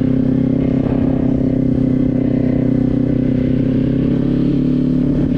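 Motorcycle engine running at a steady speed, with no revving.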